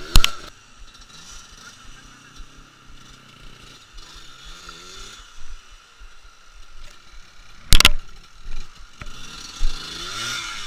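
Trail motorcycle engine revving up and down faintly, twice. Two loud sharp knocks, one right at the start and one about eight seconds in, stand out above it.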